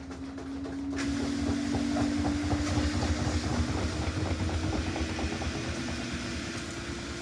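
Samsung front-loading washing machine running, its drum motor giving a steady hum that slowly rises in pitch as the drum speeds up. Over the low rumble, a rushing hiss starts suddenly about a second in.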